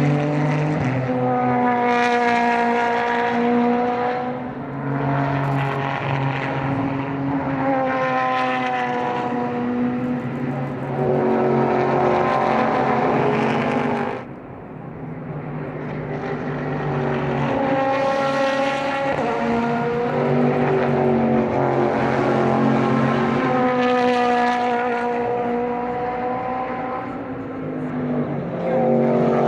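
Super GT race cars passing one after another at speed, each engine note swelling and bending in pitch as it goes by.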